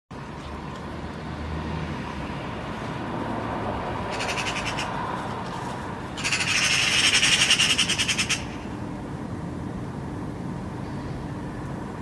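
A bird giving a harsh, rapid chattering rattle in two bursts: a short one about four seconds in, and a longer, louder one of about two seconds starting around six seconds in.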